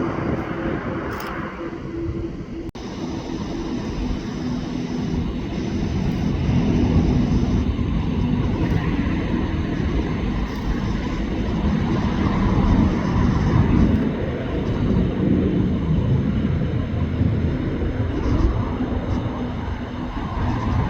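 Jet airliner engines rumbling as an aircraft passes, building a few seconds in and staying loud, with a low steady hum running through the noise.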